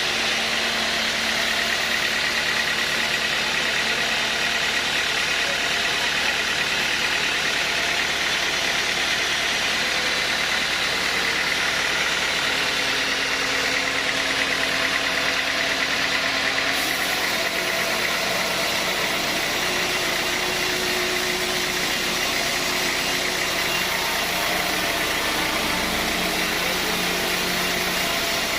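Sawmill saw and its drive running steadily while timber is sawn: a constant, loud mechanical noise with a faint steady high whine.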